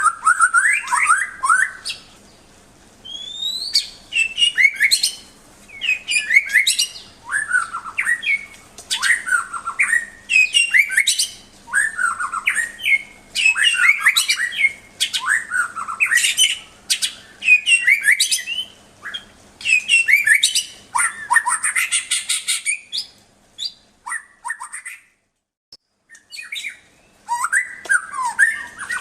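White-rumped shama (murai batu) singing: short, loud phrases of sliding whistles and quick chattering notes, repeated every second or two, with a brief pause near the end.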